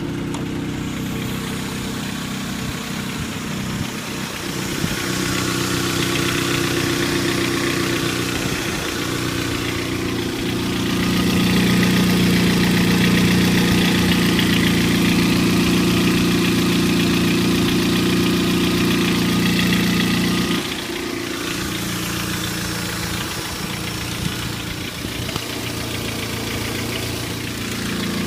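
Kia Magentis's 2.0-litre G4KA four-cylinder petrol engine running, with a rattling knock in the background that the owner cannot place. The engine speed is raised about ten seconds in, held for about ten seconds, then dropped back to idle.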